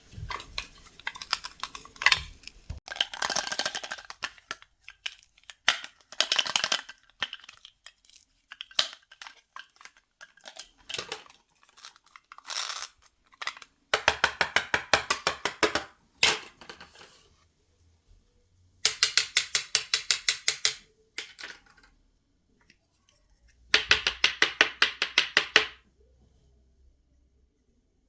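Small plastic toy kitchen pieces being handled, with scattered clicks and scrapes. Three runs of rapid, even clicking follow, several clicks a second, each lasting about two seconds.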